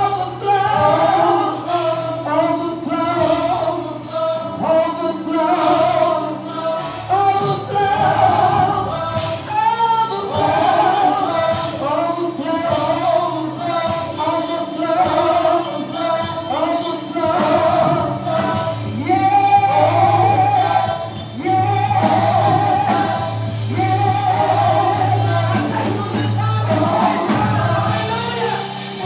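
Gospel worship singing by a choir, with live band accompaniment: a steady bass line under the voices and a regular drum beat.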